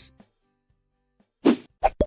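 Silence for over a second, then a short swish and a quick pop, as cartoon sound effects, near the end.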